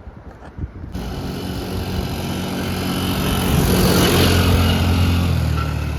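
A small 90cc ATV engine, the Can-Am DS90, running steadily. It cuts in abruptly about a second in, swells to its loudest about four seconds in, then eases off.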